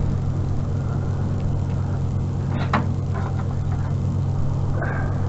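Pickup truck engine running steadily at idle, a constant low hum.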